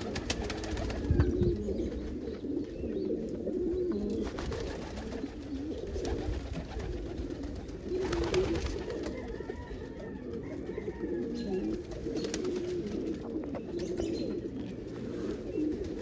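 Many domestic pigeons cooing at once in a loft, a continuous low warbling chorus. A few brief sharper noises stand out near the start and about eight seconds in.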